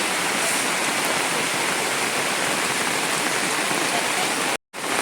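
Heavy rain falling steadily on surfaces, a dense even hiss. It cuts out briefly and suddenly just before the end, then resumes.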